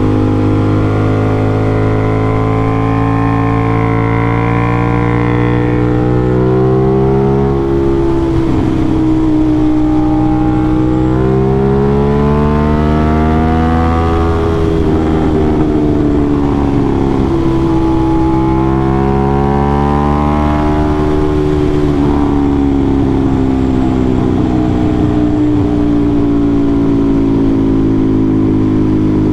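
Aprilia RS660's parallel-twin engine through an SC Project CRT aftermarket exhaust, ridden hard. The revs climb and drop over and over, with a steady loud rumble underneath.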